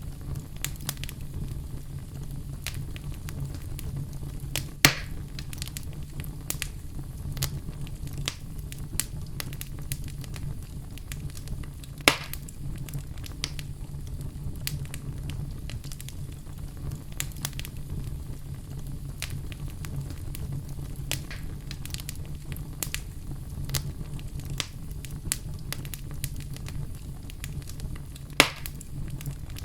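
Campfire crackling: a steady low rumble of burning wood with a constant scatter of small crackles and three louder pops, about five seconds in, about twelve seconds in and near the end.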